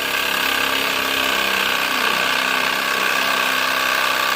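Cordless reciprocating saw cutting through metal, running steadily without a break.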